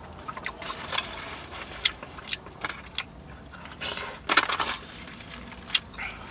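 Eating sounds: chewing with scattered small clicks and scrapes of utensils against a food container, and a louder brief rustle about four seconds in.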